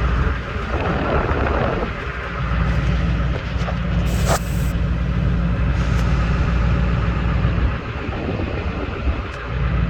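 6.6 L Duramax V8 turbo diesel idling, heard at the tailpipe with the exhaust blowing straight onto the microphone as a heavy low rumble that drops away briefly a few times. A single sharp click about four seconds in.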